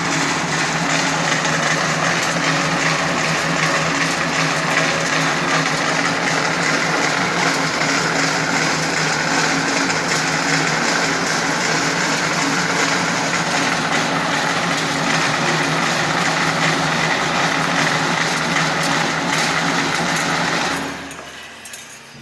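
Spiral spring coiling machine running steadily, a low hum under a dense mechanical whirring and hiss, then winding down and stopping about 21 seconds in.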